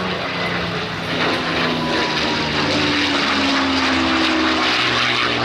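P-51 Mustang's V-12 Merlin engine running loud on a low pass, getting louder about a second in, with its pitch dropping as it goes by.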